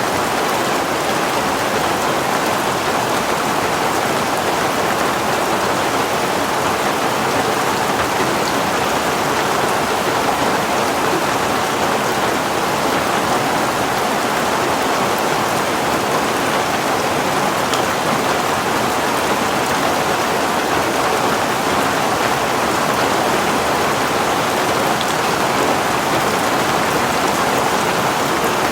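Heavy rain falling steadily on a surface, a constant even hiss with no letup.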